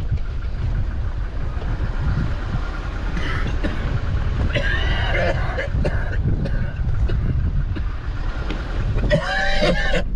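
A vehicle driving slowly along a rough bush track, its low engine and road rumble steady, heard from inside the cabin. Short wavering, pitched sounds come about halfway through and again near the end.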